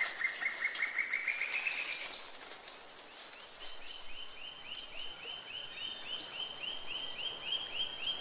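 Forest birds calling: a fast run of chirps that rises slightly in pitch for about two seconds, then a regular series of short high notes, about three a second, over a faint steady hiss.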